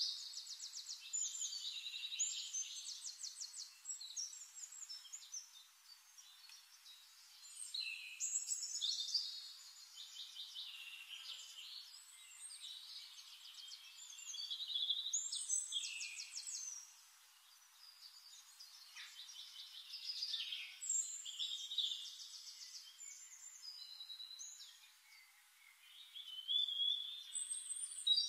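Songbird singing: phrases of high chirps and fast trills that come in bursts every few seconds.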